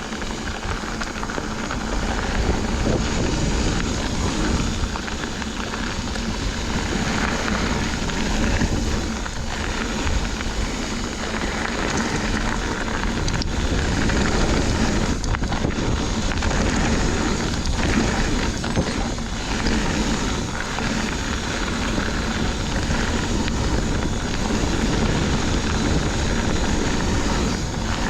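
Wind rushing over the microphone and mountain-bike tyres rolling fast over a dirt trail, a steady noisy rush with a few sharp clicks and rattles from the bike.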